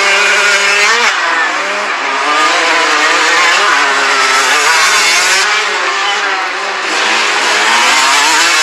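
A pack of 125cc two-stroke dirt bikes racing, many engines revving at once, their pitches rising and falling and overlapping.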